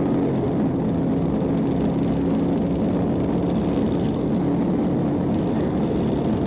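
Patrol car driving fast in a pursuit, heard from inside the cruiser: steady engine and road noise, with a low engine hum that fades about two seconds in.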